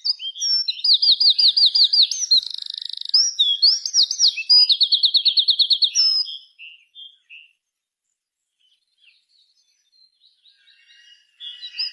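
A small songbird singing: fast runs of high repeated notes, with a buzzy stretch in between. The song stops for a few seconds, leaving only faint calls, then starts again near the end.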